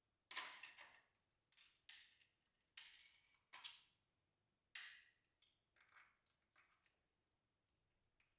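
Slime being squished and pressed by hand, making a string of short squelching pops, each sharp at the start and fading quickly. The first five are the loudest, and softer, smaller ones follow near the end.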